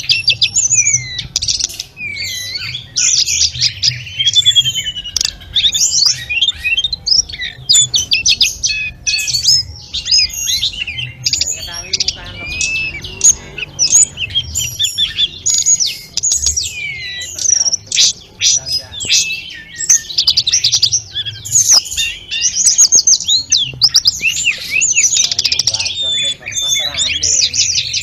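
Sulingan gunung (tledekan gunung) singing a long, unbroken song of quick, varied whistled and chirping phrases, many of the notes sliding up and down in pitch. This is the full, varied song ("full isian", "nyuling-nyuling") that masteran recordings use to tutor other songbirds.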